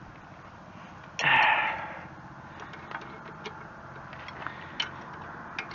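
Scattered small metallic clicks and ticks of hand tools and hardware on the backhoe's joystick control linkage while its nuts are worked on. A brief loud rushing noise comes about a second in.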